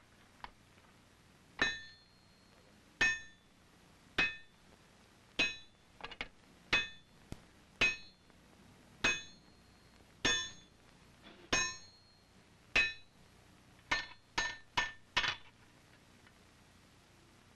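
Hand hammer striking hot wrought iron on an anvil, drawing a bar out into a flat rifle-barrel skelp. Each blow rings briefly; about ten evenly paced blows a little over a second apart, then four quicker ones near the end.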